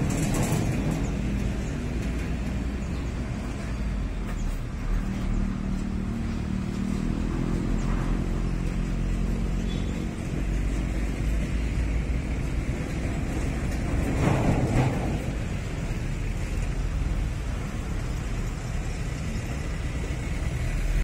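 Motor vehicle engine running steadily with traffic noise, and a brief louder swell about fourteen seconds in.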